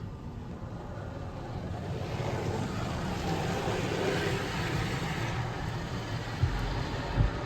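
Automated car wash machinery working over the car, heard from inside the cabin: a rushing spray that swells in the middle and then eases off, over a steady low rumble, with two thumps near the end.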